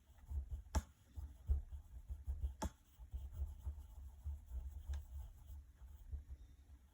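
Faint scratching of a drawing tool on paper as a shape is drawn, with two sharp clicks about one and three seconds in and a fainter one near the end.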